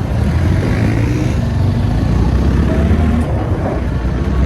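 Motorcycle engine running steadily under way, over a constant rushing noise.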